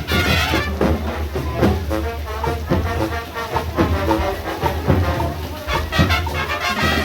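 Marching band playing, brass over drums, with a strong bass line and repeated drum beats.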